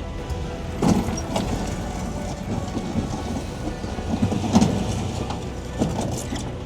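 Vehicle driving over rough dirt ground: a steady low rumble with sharp jolts and rattles about a second in, around four and a half seconds and near six seconds.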